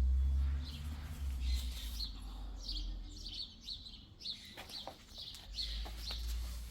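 Small birds chirping, short high chirps repeating about twice a second. A low rumble at the start fades within the first second.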